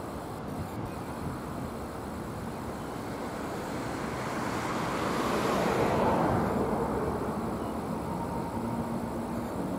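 A road vehicle passing by: a steady rushing noise that swells to a peak about six seconds in and then fades.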